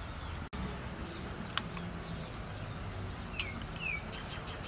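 A small bird calling twice near the end, two short chirps that each slide down in pitch, over a steady outdoor background. A single sharp click comes about a second and a half in.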